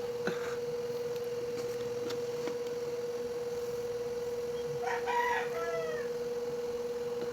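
A rooster crows once, about five seconds in, over a steady high-pitched electrical hum.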